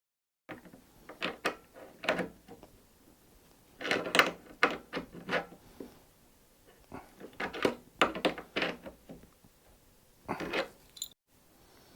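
Irregular clicks, knocks and clatters of tools and metal parts being handled, in several clusters, as the fuel line fitting of a diesel heater is fitted and tightened.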